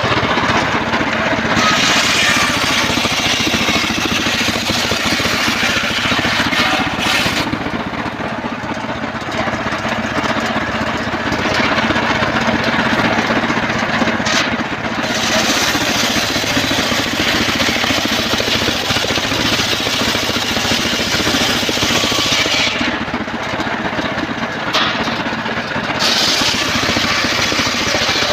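Engine-driven home-built circular sawmill running steadily while sawing trembesi (rain tree) wood. A harsh high hiss over the engine drops away briefly a few times, near a quarter of the way in, about halfway and again near the end.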